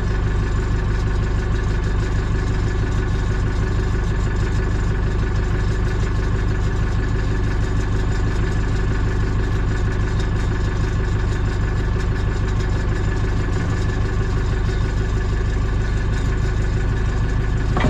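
A diesel engine idling steadily, with an even low hum that doesn't change in pitch.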